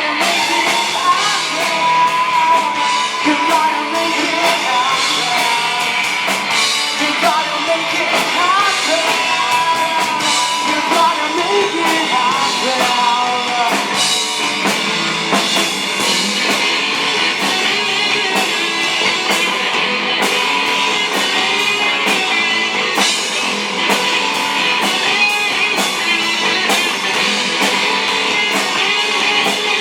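Rock band playing live: a singer over electric guitars and a drum kit.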